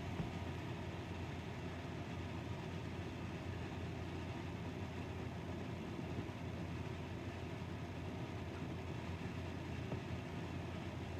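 Steady low hum of room noise with no distinct events.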